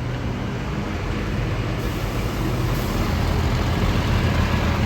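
Road traffic: a steady low engine rumble with tyre and road noise, growing louder from about two seconds in as a vehicle draws closer.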